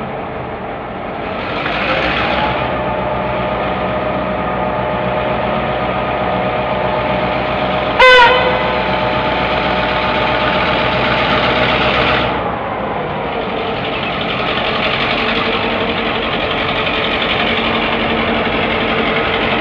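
Clyde Engineering T-class diesel-electric locomotive running, its engine note growing louder about a second and a half in and easing off again about twelve seconds in. A short, very loud horn blast comes about eight seconds in.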